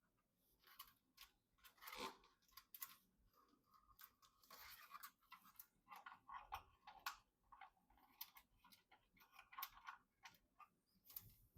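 Faint, scattered clicks, taps and rustles of computer hardware and packaging being handled during a PC build, with a few slightly louder clicks around two and seven seconds in.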